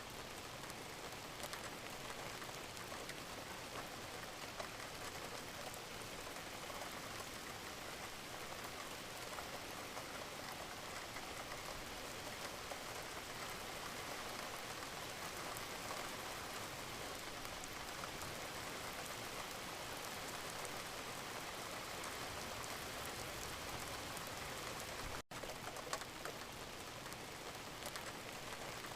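Gentle steady rain falling, an even hiss with faint scattered drops, which breaks off for an instant about 25 seconds in.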